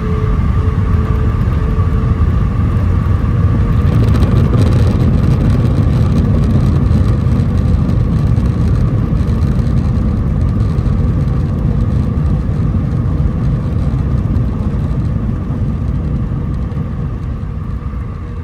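Airbus A319 landing rollout heard from inside the cabin: a loud, steady rumble of the engines and the wheels on the runway, with a steady engine whine on top. It swells a few seconds in, then gradually eases as the aircraft slows.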